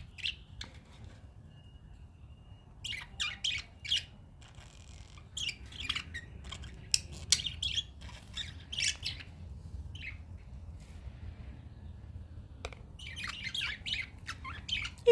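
Pet budgerigars chirping and squawking in short, sharp bursts of chatter with brief pauses between them, including one short steady whistle about two seconds in.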